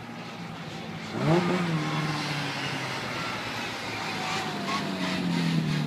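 Classic Mini's four-cylinder engine revving hard as the car accelerates: a sharp climb in revs about a second in, held and easing off, then rising again near the end.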